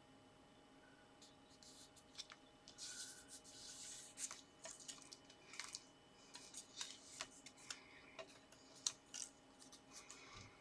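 Faint rustling of card and paper pieces being handled and arranged, with scattered light clicks and taps; the sharpest tap comes near the end.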